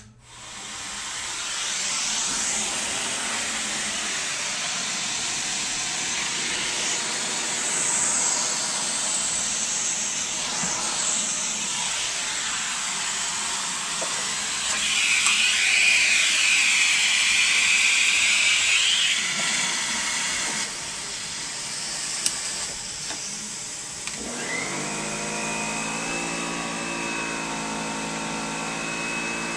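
Central vacuum system switching on and running, a steady rush of air sucked through the hose. Midway the airflow grows louder and higher-pitched for a few seconds. Near the end a steady whining tone joins the rush.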